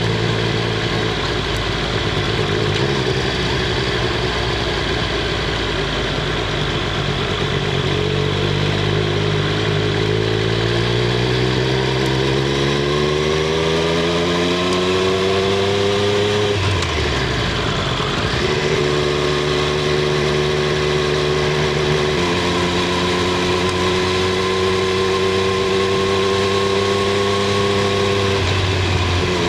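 Triumph Street Triple 765 R's inline-three engine and exhaust, heard from on the bike while riding. The engine note climbs steadily under acceleration, drops away sharply about halfway through, then settles into a steady cruising note.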